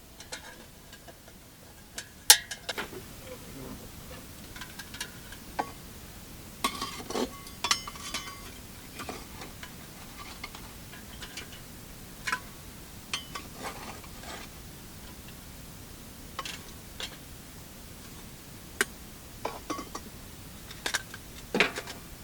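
Dishes and utensils being handled: scattered clinks and knocks, the loudest about two seconds in, with a cluster around the middle and another near the end.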